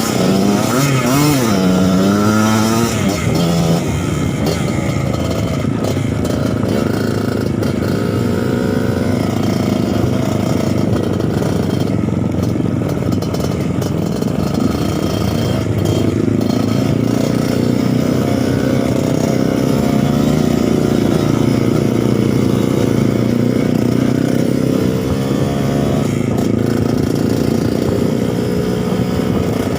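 Suzuki TS 125's two-stroke single-cylinder engine being ridden off-road, revving up and down in the first few seconds and then running more steadily with smaller rises and falls in pitch.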